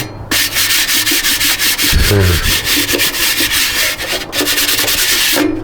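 Rapid scratchy scraping strokes, a dense hiss of many quick rubs that breaks off briefly about four seconds in.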